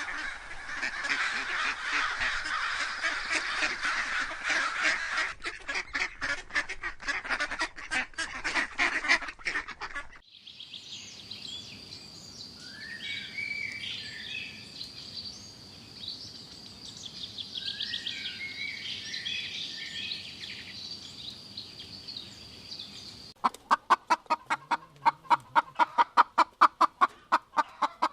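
A flock of waterfowl honking and gabbling densely for about ten seconds. This cuts to a quieter stretch of bird chirps and short gliding calls over a steady high whine. From about 23 seconds in comes a fast, regular series of short chicken clucks.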